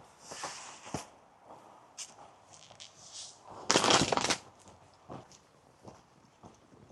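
Footsteps on a path as hikers walk, scattered short clicks, with a louder scraping rustle lasting under a second about four seconds in.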